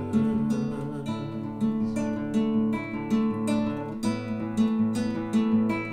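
Acoustic guitar strumming chords in a steady rhythm, about two strums a second, with no singing: an instrumental passage of a folk song.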